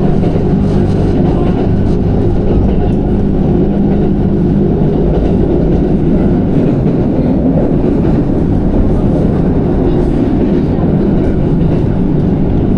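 Passenger train running, heard from inside the carriage: a steady low rumble of wheels on the track with an even hum.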